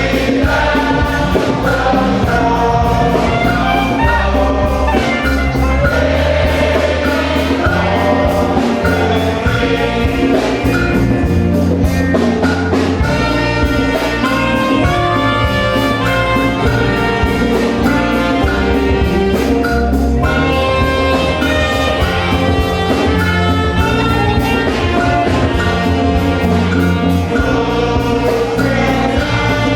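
Gospel song sung by a choir with instrumental backing and a steady beat.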